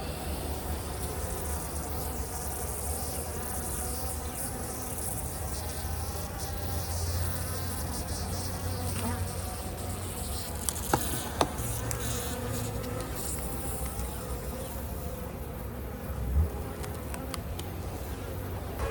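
Honeybees buzzing steadily around an open hive, with a couple of sharp clicks about eleven seconds in and a short thump near the end.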